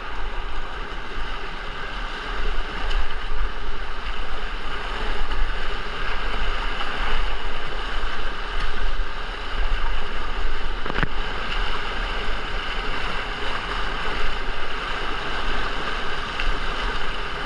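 Steady rush of moving river water on a whitewater slalom course, with wind rumbling on the microphone and a single sharp knock about eleven seconds in.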